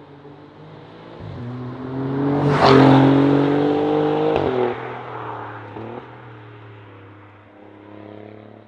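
Alfa Romeo Giulia Quadrifoglio's 2.9-litre twin-turbo V6 with a Pogea Racing exhaust accelerating past, the engine note rising to its loudest about three seconds in. Midway it cuts off abruptly with a sharp crack and drops in pitch, then fades as the car pulls away.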